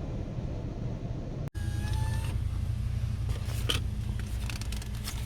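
Steady low rumble of an automatic car wash's drying blowers. It is cut off abruptly about a second and a half in. It gives way to a steady low hum with a brief two-tone beep, then a scattering of clicks.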